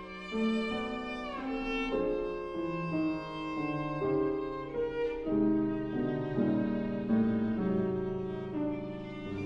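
Viola playing a melody in sustained bowed notes, with piano accompaniment underneath.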